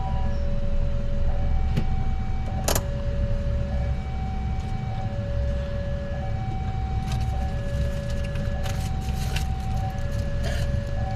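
A two-tone hi-lo siren alternating steadily between a low and a high note, each held for about a second, over the low rumble of road noise. A sharp click comes about three seconds in and crackling near the end.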